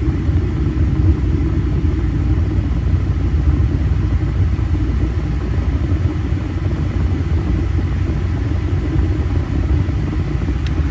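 Steady rumble inside the cab of a 1994 Nissan Hardbody pickup, its four-cylinder engine idling with the air-conditioning blower running.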